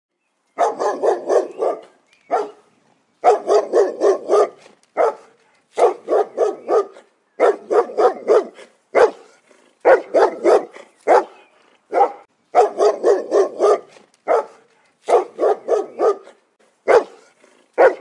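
A dog barking in quick volleys of four to six barks, each volley about a second long, with short pauses between them.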